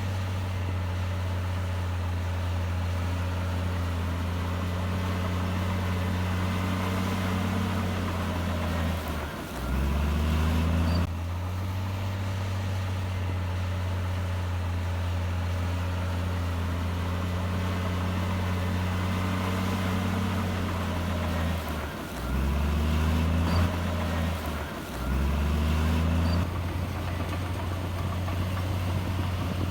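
Heavy diesel engine of earthmoving machinery running steadily. Its pitch sags and climbs back with short louder stretches once about ten seconds in and twice more later, as the engine takes and sheds load.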